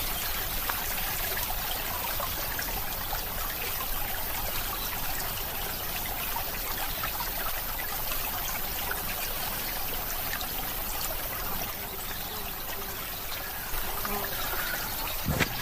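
Steady trickling of flowing water, like a small stream, cutting off abruptly near the end.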